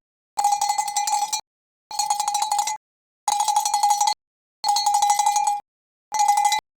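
A metal bell jangling with rapid strikes, in five bursts about a second long, each cut off abruptly by a short silence.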